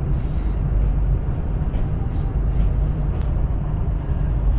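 Chinese CRH high-speed train running, a steady low rumble, with a single sharp click a little over three seconds in.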